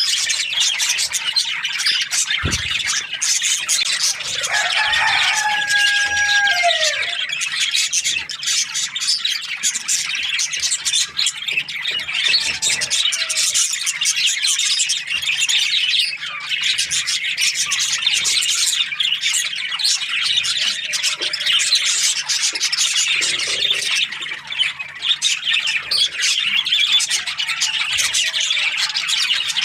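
A flock of budgerigars chirping and chattering together in a dense, unbroken high twitter, with a few lower gliding calls standing out about five seconds in. A single low thump about two and a half seconds in.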